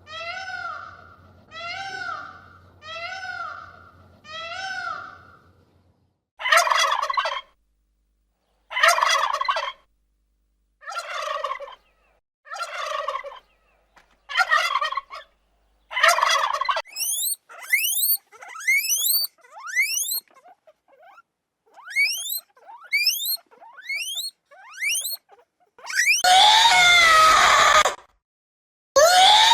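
A run of different animal calls one after another: five arched calls repeated about once a second, then about eight loud rasping, gobble-like calls, then a string of thin, quickly rising whistles, and loud screaming calls near the end.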